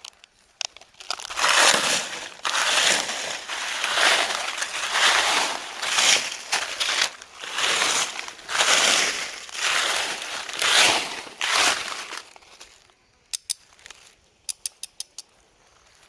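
Repeated crunching and rustling in loud bursts about once a second, then a few quick sharp clicks near the end.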